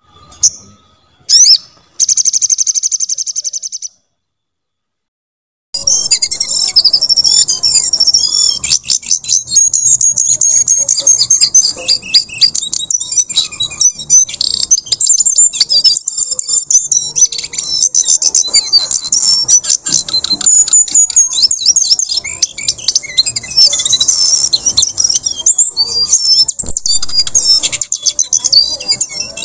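A jongkangan (brown cingcoang) songbird singing fast and without a break: a dense stream of high chirps, whistled flicks and trills. It starts about six seconds in, after a few short intro sounds and a moment of silence.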